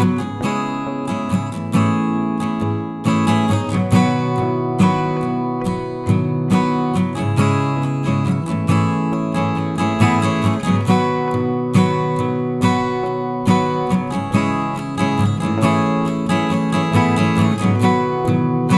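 Acoustic guitar music, strummed and plucked with a steady rhythm.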